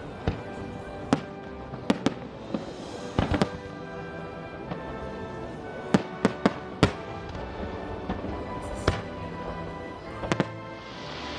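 Aerial fireworks bursting: a dozen or so sharp, irregular bangs, some in quick clusters, over steady background music.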